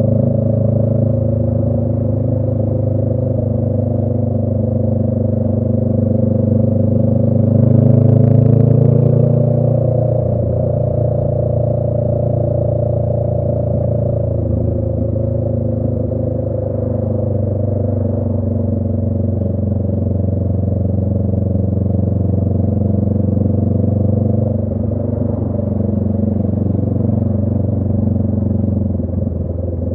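2018 Honda Rebel 500's parallel-twin engine, breathing through a Radiant Cycles Shorty GP aftermarket exhaust, running steadily under way. It swells briefly about eight seconds in, then settles back to a steady cruise.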